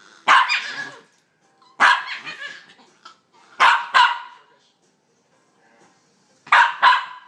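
Two puppies play-fighting, giving short, high-pitched bark-like yelps in quick bursts, odd monkey-like sounds; about six calls, with a pause of a couple of seconds before the last two.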